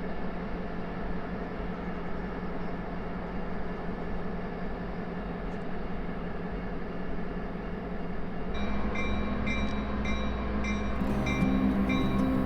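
Diesel freight locomotives running slowly by, a steady rumble with a low hum. Background music comes in about two-thirds of the way through.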